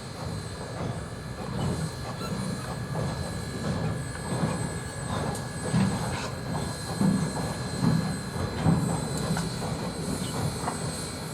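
Train rolling past, a steady rumble with scattered clicks from the wheels running over the rail.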